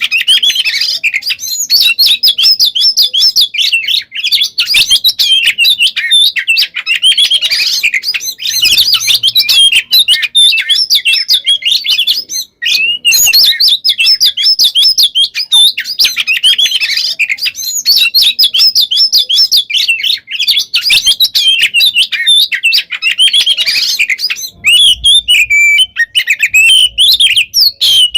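Oriental magpie-robin (kacer) singing a loud, rapid, almost unbroken song of quick-changing whistled notes and rolls, packed with mimicked phrases, with one short break about twelve and a half seconds in.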